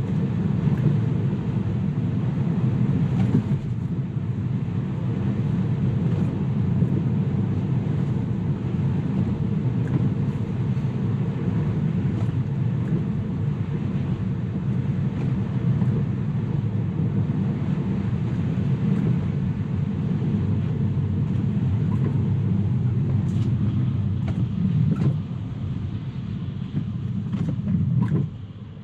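Steady tyre and road noise of a Tesla on the move, heard from inside the cabin. It drops in level a little before the end and again right at the end.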